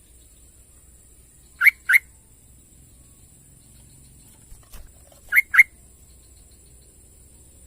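Yellow-vented bulbul calling: two pairs of short, sharp notes, the second pair about three and a half seconds after the first, over a steady high-pitched hiss.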